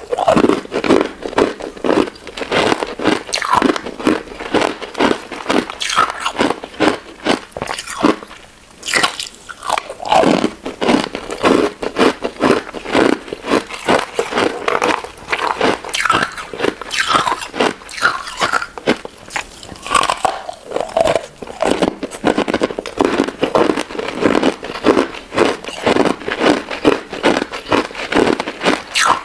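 Close-miked biting and chewing of a crunchy crystal ice and jelly dessert: a dense, continuous run of crisp crunches, with a brief lull about eight seconds in.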